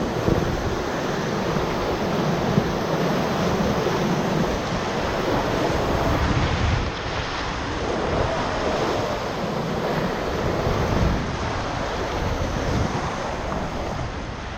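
River whitewater rushing steadily around a paddle raft, with wind buffeting the microphone, and a brief sharp knock about two and a half seconds in.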